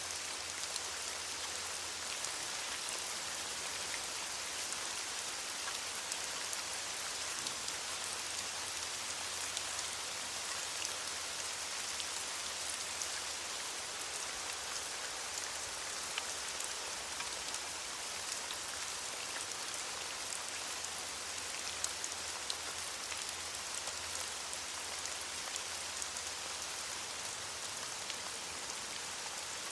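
Steady rain falling on leaves, an even hiss with the patter of individual drops.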